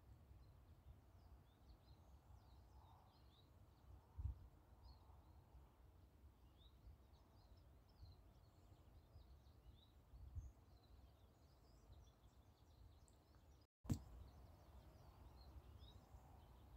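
Near silence with faint birds chirping on and off over a low outdoor rumble. Two soft thumps come about four and ten seconds in, and a brief dropout ends in a click near the end.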